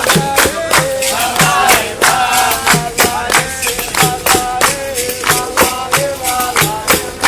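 Capoeira roda music: berimbau and percussion keeping a steady beat of strikes, about three a second, under call-and-response group singing.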